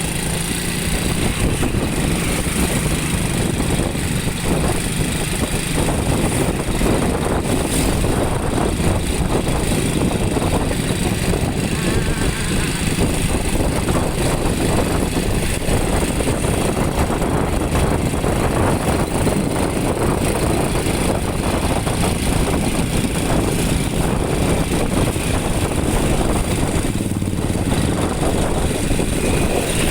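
Motorcycle running on the road, its engine mixed with a steady rush of wind and road noise.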